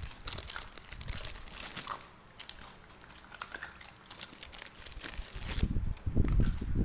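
Puppies chewing and smacking on sticky rice cake: a rapid, irregular run of wet clicks and crackles, with heavier low bumps near the end.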